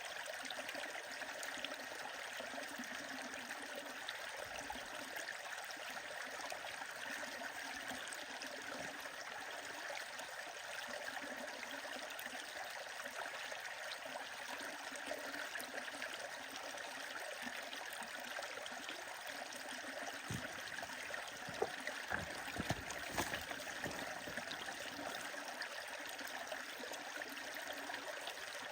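Stream running with a steady rushing sound, and a handful of sharp pops and cracks from a crackling wood fire about two-thirds of the way through.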